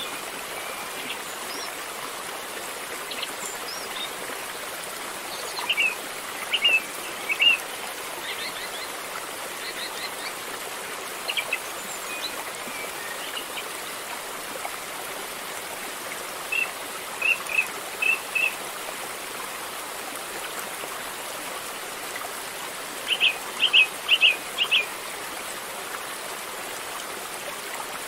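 River water flowing in a steady rush. Small birds chirp over it in three short runs of quick notes: about six seconds in, around seventeen seconds, and loudest around twenty-four seconds.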